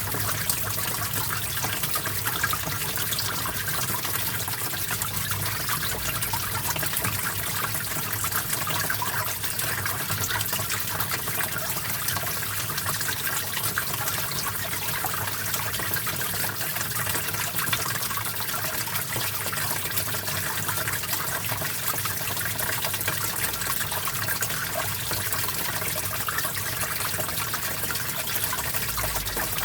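Small stream of water flowing and trickling over rocks, a steady splashing babble.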